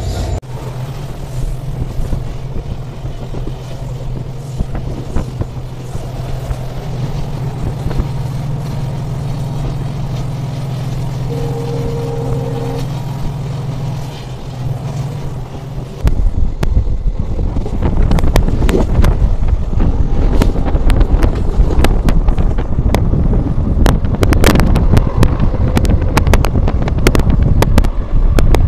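Passenger train running, heard from an open coach door: a steady low hum with a brief steady tone about twelve seconds in. Then, about halfway through, a sudden jump to loud running at speed, with wind buffeting the microphone and rapid clatter of the wheels over the rails.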